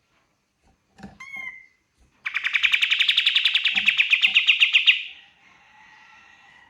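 Kapas tembak songbird singing at full song: a short rising whistled note, then a loud, fast rattling trill of about a dozen notes a second for nearly three seconds, trailing off into a softer warble.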